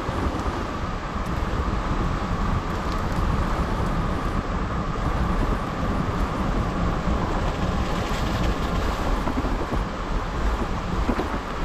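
Strong gusty wind buffeting the microphone over heavy surf and rain on a stormy coast.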